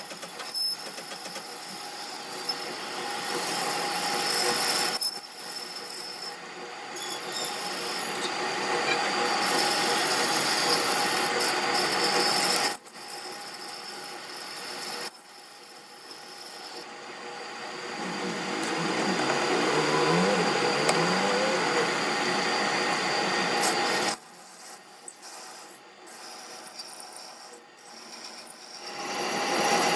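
Metalworking shop noise: a steady rasping, scraping sound of metal being worked, with a machine's steady hum underneath. It comes in several segments that start and stop abruptly.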